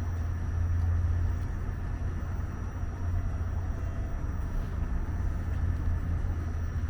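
Low, steady vehicle rumble with a faint, steady high whine above it.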